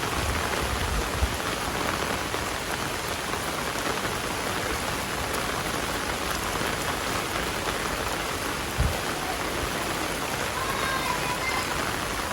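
Heavy rain falling steadily, a dense even hiss of drops on surfaces. A brief low thump about nine seconds in.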